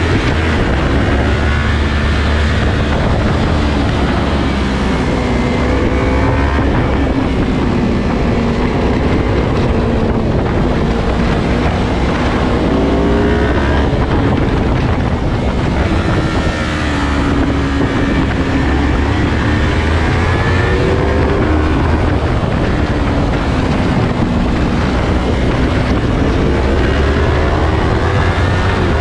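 Yamaha R3's parallel-twin motorcycle engine under way, its pitch rising and falling again and again as it revs up through the gears and eases off, with wind rushing over the microphone.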